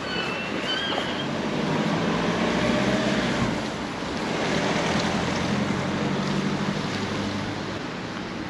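Steady outdoor noise of surf and wind on the microphone, with a motor vehicle's engine passing twice and a few short high chirps near the start.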